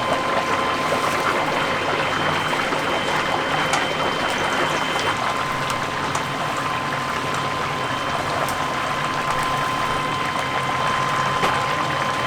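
Whole chicken deep-frying in hot oil: a steady sizzle with scattered sharp pops, over a thin, steady high-pitched hum.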